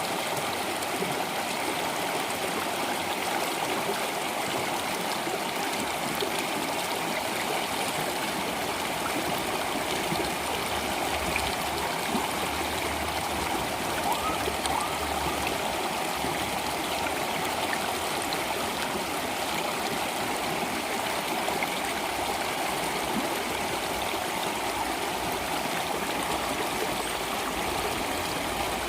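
Flowing water running steadily, an even unbroken sound that neither swells nor stops.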